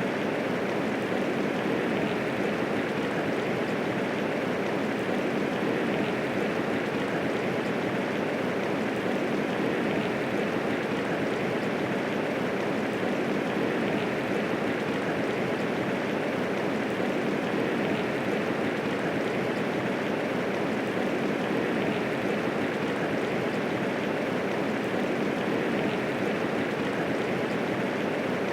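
Steady medium rainfall, an even hiss of falling rain that does not rise or fall, with no thunder.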